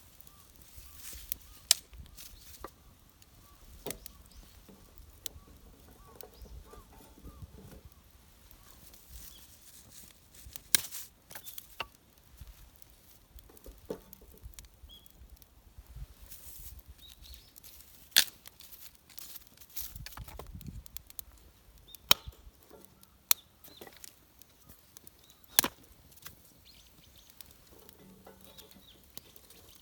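Irregular sharp knocks and clicks, about a dozen spread out one to three seconds apart, over a faint low background.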